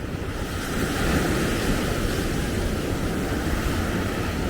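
Ocean surf washing onto the beach as a steady rush, swelling slightly about a second in, with wind buffeting the microphone.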